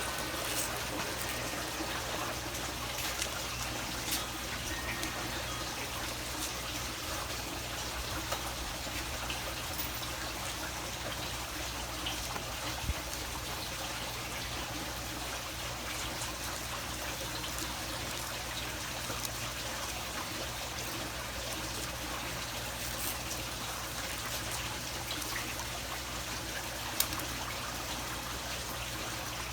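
Steady trickling, water-like noise with a faint low hum underneath and an occasional small click.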